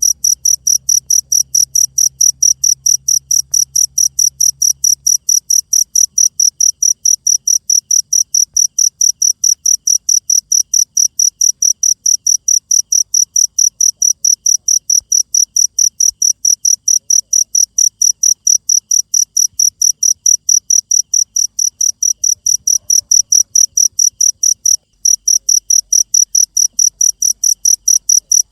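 Cricket chirping in a fast, very even rhythm, about three to four high-pitched chirps a second, with a brief pause near the end.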